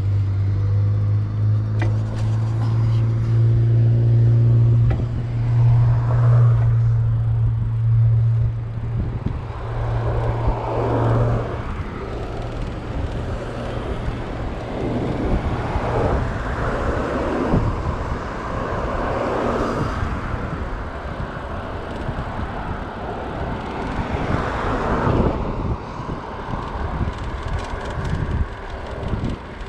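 Road traffic: a vehicle engine runs with a steady low hum for about the first eleven seconds, then several vehicles pass, their noise swelling and fading.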